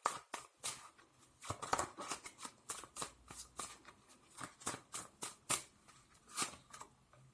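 Tarot cards being shuffled and handled by hand: a quick, irregular run of card slaps and flicks.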